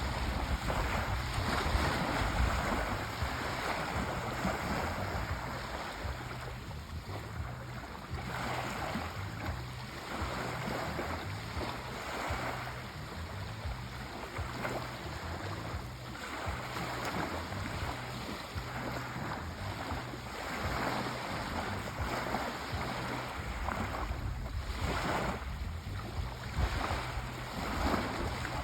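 Sea waves breaking and washing up the shore, the surf rising and falling every few seconds over a low rumble.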